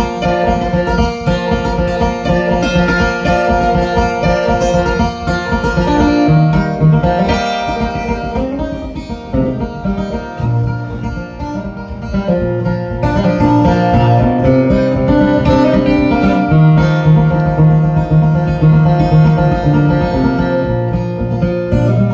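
Acoustic guitar playing an instrumental passage between sung verses of a folk ballad, plucked notes over a moving bass line.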